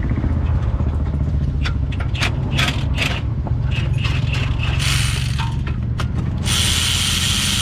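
Socket ratchet clicking in short runs as a bolt is undone, then about six and a half seconds in a power tool runs with a loud hiss for about two seconds, over a steady low hum.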